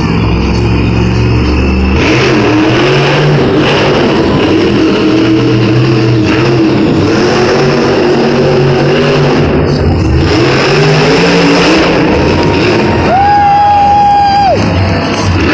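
Monster truck engine revving hard, its pitch rising and falling repeatedly. Near the end a steady high tone sounds for about a second and a half.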